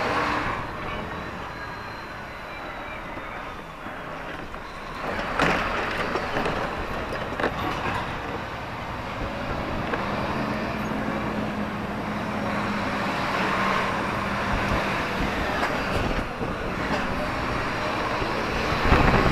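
Lorry cab while driving: the engine running under road noise, with a steady low engine note for several seconds past the middle and a short knock about five seconds in.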